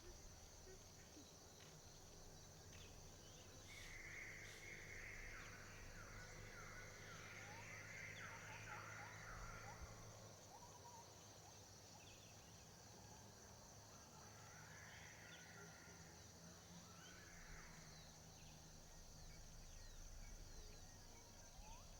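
Faint forest ambience: a steady high insect drone, with bird chirping twice, about four seconds in and again around fifteen seconds.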